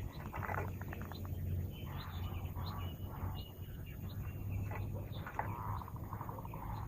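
Zebra dove (perkutut) calling as a decoy bird, a repeated cooing with rapid trills, with small chirps among the calls over a steady low hum.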